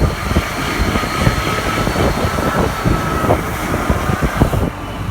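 Santiago Metro NS-93 train running, heard from on board: a steady low rumble with many short knocks, and a steady high tone that stops about three seconds in. The hiss lessens near the end.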